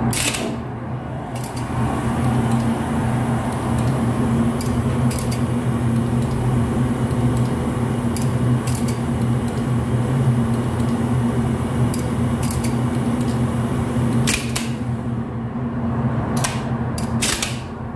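Mitsubishi elevator machinery running: a low steady electrical hum, with sharp clicks now and then and several in quick succession near the end.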